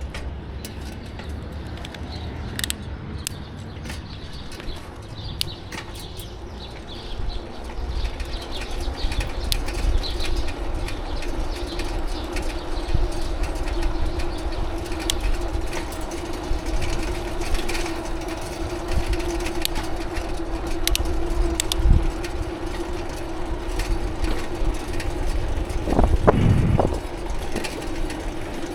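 Bicycle riding noise: a constant low rumble of wind and road, with scattered light clicks and a steady hum that comes in about a quarter of the way through.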